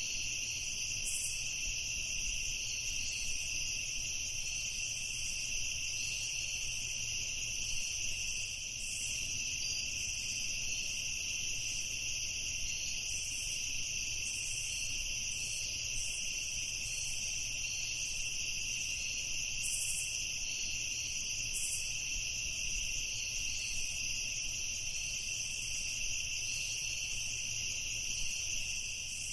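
Night chorus of crickets trilling without pause at two pitches, with brief higher chirps every second or two.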